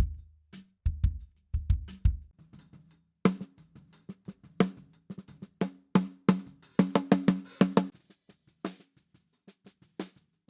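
Acoustic drum kit played back from a multitrack recording with all its microphones up, close and room mics together. Kick and snare hits for the first couple of seconds, then a busier run of drum hits with a ringing pitched tone from about three to eight seconds, thinning to a few light hits near the end.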